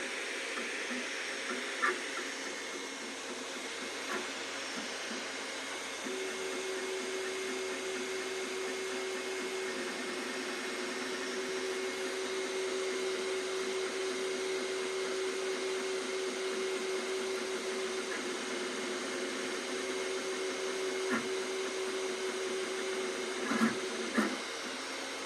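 Two Trees Sapphire Plus CoreXY 3D printer printing, its motors and cooling fans running with a steady whine and hum. A few sharp knocks come through, two louder ones near the end: a bumping like something hitting metal, which the owner cannot place between a motor and a mechanical fault.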